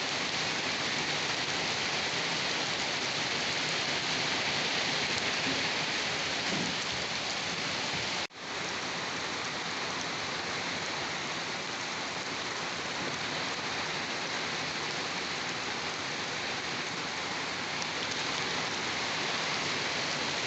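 Steady rain falling on a surface, a continuous even hiss. About eight seconds in it cuts out for a moment and fades straight back in.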